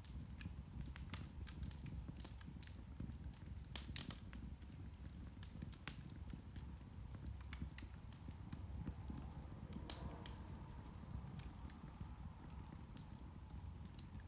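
Irish turf (peat) fire crackling: irregular sharp ticks and pops over a low steady rumble, with one louder pop about six seconds in.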